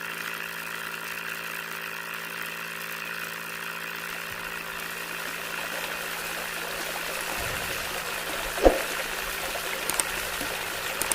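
Small electric motor of a homemade toy water pump running steadily with a constant hum, with one knock about three-quarters of the way through.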